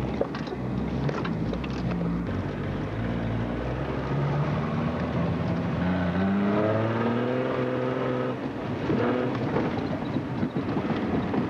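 Off-road 4x4's engine heard from inside its cabin while driving over rough snowy ground. The engine runs steadily, revs up with a rising pitch about six seconds in, and holds there for a couple of seconds, with a few knocks and rattles near the start.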